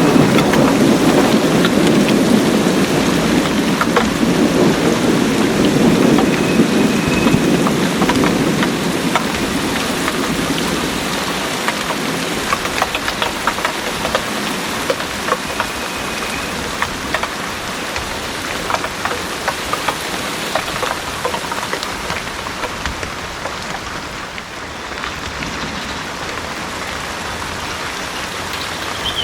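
Heavy rain pouring steadily, with many small drop impacts. A low rumble of thunder at the start fades away over about the first ten seconds.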